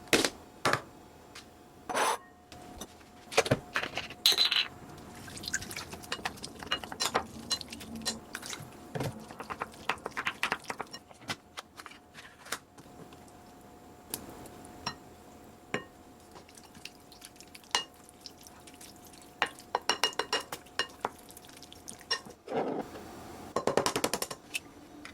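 Kitchen preparation sounds: a long string of clinks, knocks and scrapes of utensils against dishes and a tuna can, with some liquid sounds, over a faint steady hum.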